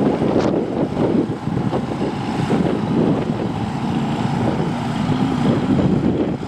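Mud-bog truck engine running loudly and continuously, its pitch wavering up and down.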